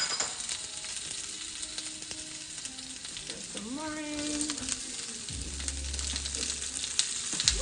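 Lemon slices and chopped aromatics frying in oil in a nonstick skillet: a steady sizzle with frequent crackles. A low rumble comes in for about a second and a half near the end.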